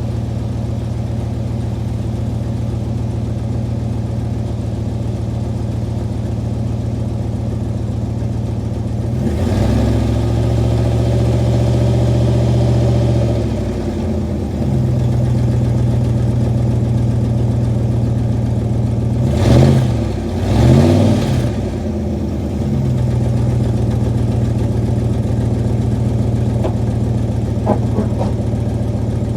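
1995 Dodge Ram pickup's V8 idling steadily shortly after a cold start at 35 °F, then revved up and held for about four seconds before dropping back. Two quick blips of the throttle follow, and it settles back to a steady idle.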